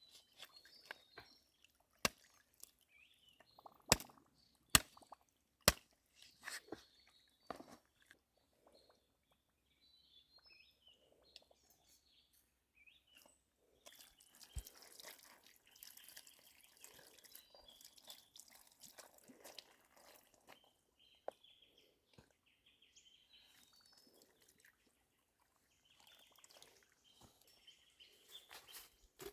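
Faint scattered sharp clicks and pops, the loudest in a cluster over the first six seconds, with faint bird chirps in the background.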